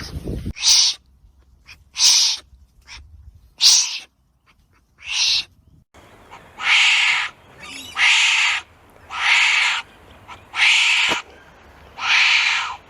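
Wombat calling over and over with short hoarse calls, each about half a second long: a few irregular ones in the first six seconds, then a steady series of about one call every second and a quarter.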